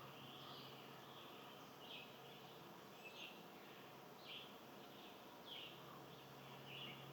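Faint bird chirps outdoors, short high notes repeating about once every second and a bit, over a steady low hum.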